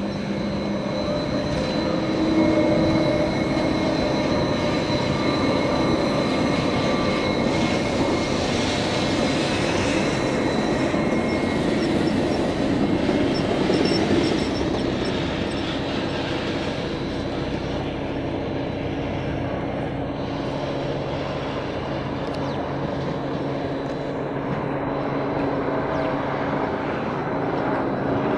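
Jungfraubahn electric rack-railway train rolling slowly past: a continuous rumble and rail noise with a thin steady high whine. It is louder through the first half and eases off as the train moves away.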